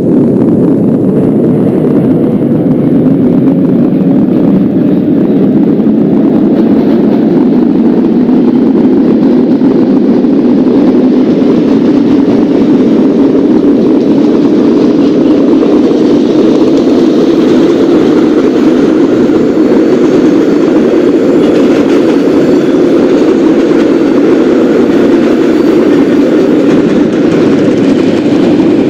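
Subway train running along the tracks: a loud, steady rumble, with a faint whine that rises in pitch over the first several seconds.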